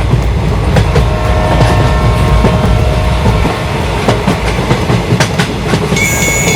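Train running along the track with a steady rumble and rapid clicking over the rail joints. A high, steady whistle-like tone comes in near the end.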